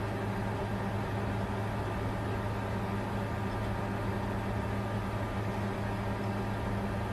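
Bitcoin mining computer's cooling fans running steadily: an even whooshing hiss over a constant low hum.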